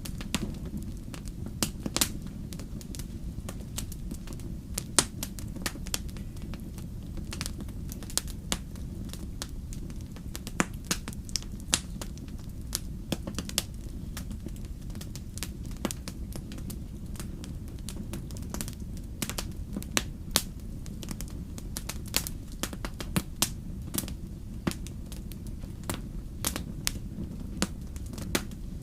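Wood fire in a fireplace crackling, with irregular sharp pops, a few of them louder, over a steady low rumble.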